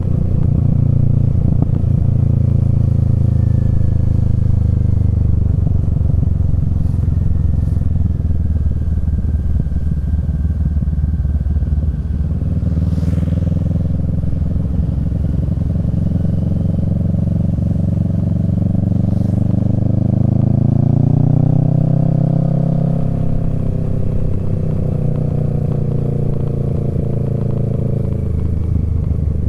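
Kawasaki Z650 parallel-twin through a Yoshimura Alpha exhaust, ridden at a steady cruise. The revs slowly ease off, climb about two-thirds of the way through, then drop back.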